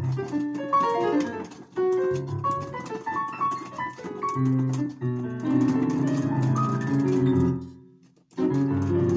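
Solo piano playing: quick runs of single notes, then dense ringing chords that die away briefly near the end before a new chord is struck.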